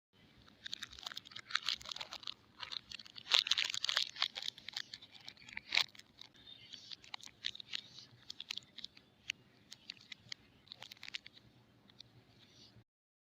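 Soap packaging being unwrapped by hand: irregular crinkling, crackling and rustling, loudest about three to four seconds in, then sparser.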